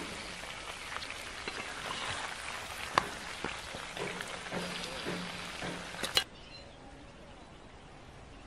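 Goose meat sizzling and crackling in a wide metal pan while a wooden spatula stirs it, with scattered knocks of the spatula against the pan, the sharpest about three seconds in. About six seconds in it cuts off abruptly to a quieter, even outdoor background.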